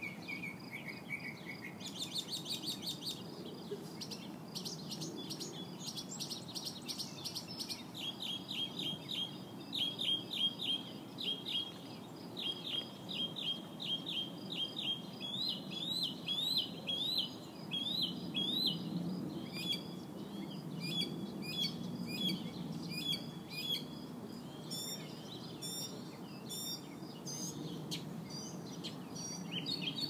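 A bird singing crazy loud: a long, continuous song of rapidly repeated chirps and down-slurred whistles that switches to a new phrase every few seconds.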